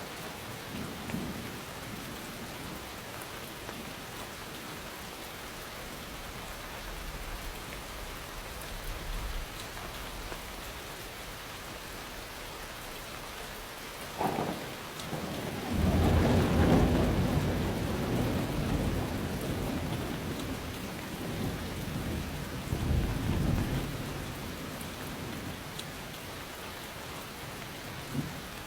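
Steady rainfall with a thunderclap about halfway through: a sharp crack, then a long, loud low rumble that swells once more before fading back into the rain.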